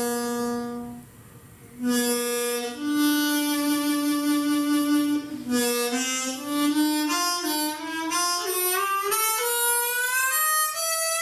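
A single instrument playing a slow improvised melody. Long notes are held, with a short break about a second in, then the pitch climbs steadily over the last five seconds.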